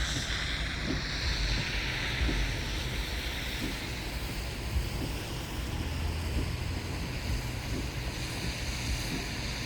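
Steady rushing noise with an uneven low rumble of wind buffeting the microphone.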